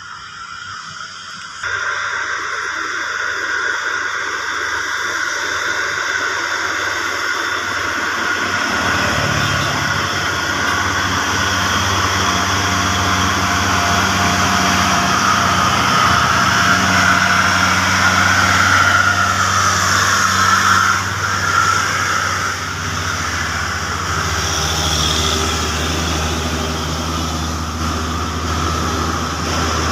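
Heavy diesel trucks coming down a steep grade. Road and tyre noise rises sharply about two seconds in, and a truck's diesel engine comes in low and steady about nine seconds in and keeps running.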